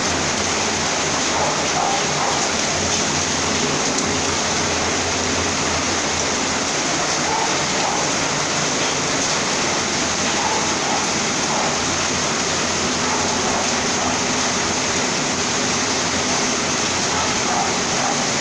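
Heavy rain falling and water running in a flooded street, a dense, steady hiss.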